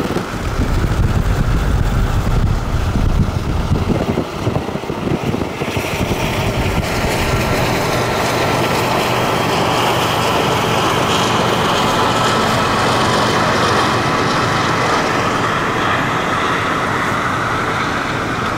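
Uneven low road rumble from a moving vehicle for the first few seconds. Then, from about six seconds in, the steady rolling rush of a Norfolk Southern intermodal freight train passing: locomotives followed by container cars on the rails.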